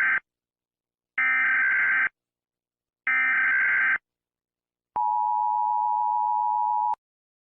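Emergency Alert System SAME header: the tail of one burst of buzzy digital data tones, then two more bursts about a second long and a second apart. Then the two-tone EAS attention signal sounds steadily for about two seconds and cuts off suddenly.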